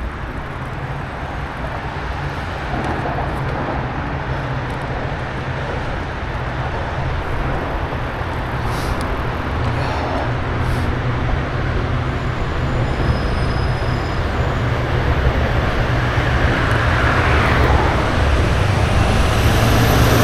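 Steady rumbling road noise heard from a moving bicycle, with wind and vehicle traffic mixed together, growing gradually louder.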